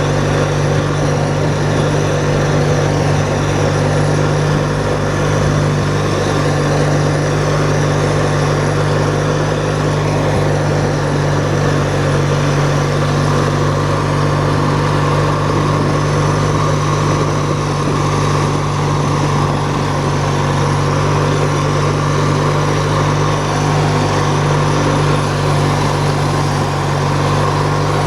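Riding lawn tractor engine running steadily under way, a constant low hum with no change in speed.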